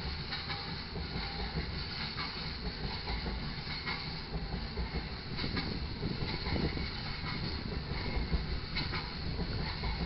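Loaded taconite ore cars of a freight train rolling past: a steady rumble of steel wheels on rail with scattered sharp clicks.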